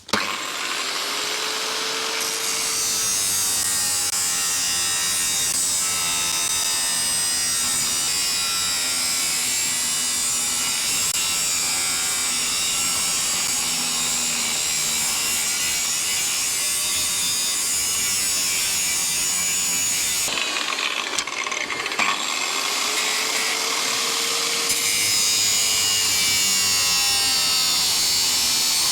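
Angle grinder cutting and trimming steel trackbed framing: a steady, loud grinding run that starts abruptly, falters briefly about two-thirds of the way through, then carries on.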